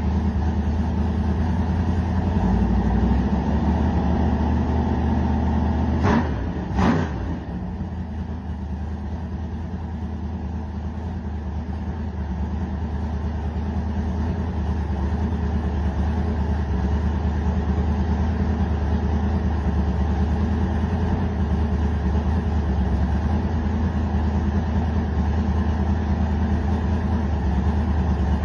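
Chevrolet small-block 400 V8 engine idling steadily, blipped twice in quick succession about six seconds in, then settling back to idle.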